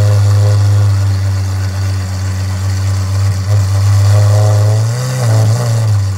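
Lamborghini Aventador SVJ's naturally aspirated V12 idling, loud and steady, with a couple of light throttle blips in the last second or so.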